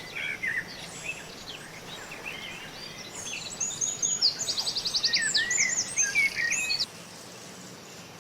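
Small birds chirping and whistling in a busy overlapping chorus of short rising and falling notes, with a rapid trill about four and a half seconds in. The calls stop near the end, leaving a steady background hiss.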